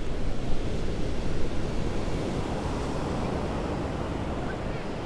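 Heavy storm surf washing up the beach, a steady rushing that swells slightly midway, with strong wind rumbling on the microphone.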